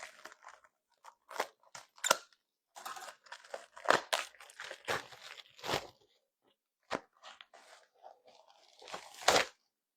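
Irregular crunching, crackling and clicking from food and kitchen things being handled, with louder knocks about four seconds in and near the end.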